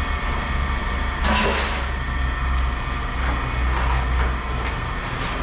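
A vehicle engine running steadily with a low rumble. About a second and a half in there is a brief scraping clatter.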